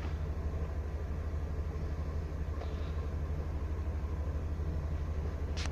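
Van engine idling with a steady low rumble, charging the system while a 1500 W inverter runs an electric space heater. A sharp click comes just before the end.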